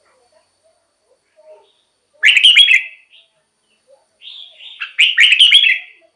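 Red-whiskered bulbul singing: two loud, quickly warbling song phrases, a short one about two seconds in and a longer one near the end.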